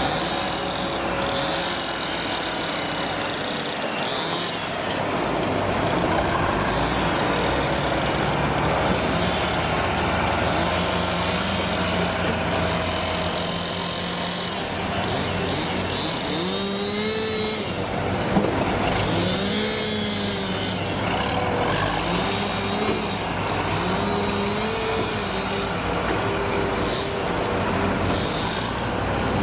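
Heavy diesel engines running steadily. From about halfway through, one engine revs up and down again and again, each rise and fall lasting a second or two, as a working machine does under changing load. A single short sharp knock sounds near the middle.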